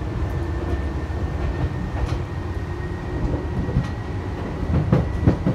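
Tokyu 8500 series commuter train running, heard from inside the passenger car: a steady, loud low rumble of wheels and traction motors with a thin high whine over it, and a couple of sharp rail-joint clacks near the end.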